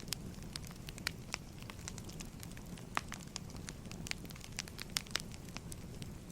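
Firewood burning: irregular sharp crackles and pops, several a second, over a low steady rumble of the fire.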